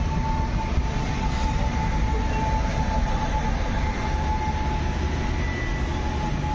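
Indian Railways express train running just after departure, heard from an open coach doorway: a steady rumble of the wheels on the rails, with a faint steady whine over it.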